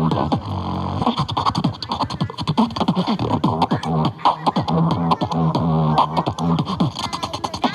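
Beatboxing: a fast, unbroken run of mouth-made drum hits and clicks over a hummed low bass line, with short downward-sliding kick-like strokes.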